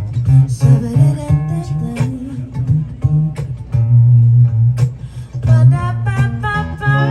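Live acoustic guitar playing: sharply plucked notes over a strong bass line, settling into a held chord near the end.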